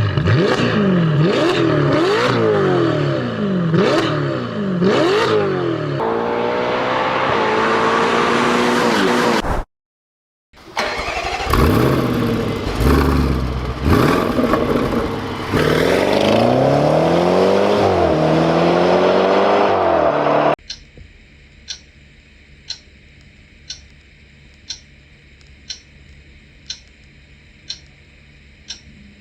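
A high-performance car engine revved hard and repeatedly, its pitch climbing and falling. There is a brief silent cut about ten seconds in. After about twenty seconds the engine stops and a clock ticks about once a second.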